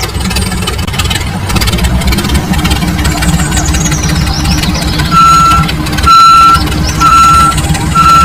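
A vehicle engine running with a low, steady rumble; about five seconds in, a reversing alarm starts beeping, four evenly spaced beeps.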